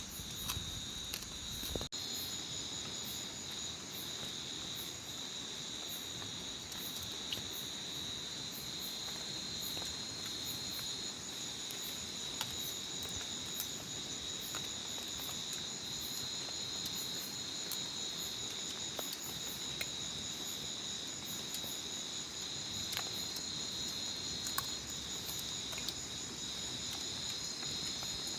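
Chorus of crickets and other insects trilling steadily at several high pitches, with a faster pulsing buzz above them and a few faint clicks.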